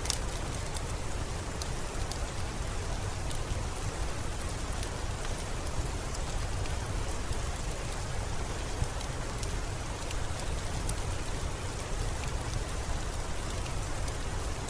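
Steady rain falling, an even hiss with a low rumble underneath and scattered sharp ticks throughout.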